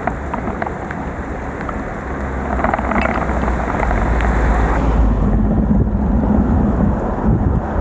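Wind buffeting the microphone over heavy rain and wet road noise from a moving bicycle, the low rumble growing louder about two and a half seconds in. Scattered sharp ticks of raindrops striking the microphone in the first two seconds.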